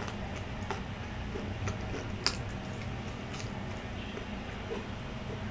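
Close-miked eating of grilled street food: chewing with scattered small clicks, and one sharper, louder click a little over two seconds in.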